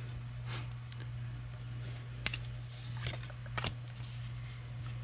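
Trading cards being handled and flipped through: a few short scrapes and clicks, about half a second, two seconds and three and a half seconds in, over a steady low hum.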